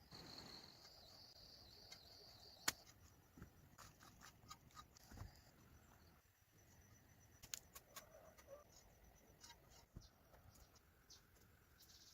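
Faint outdoor ambience: an insect trills steadily at a high pitch for the first few seconds, and scattered sharp clicks and knocks fall throughout, one louder knock about three seconds in.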